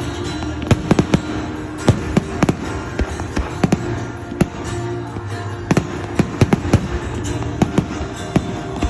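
Fireworks going off in a rapid string of sharp bangs and crackles, several a second, with music playing underneath.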